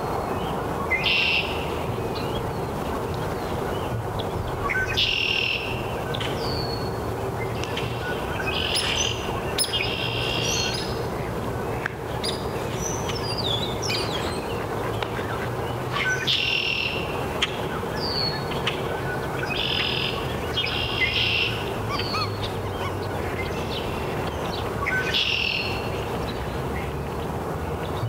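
Wild birds calling in a wetland, short songs and falling whistles every few seconds, over a steady low background rumble.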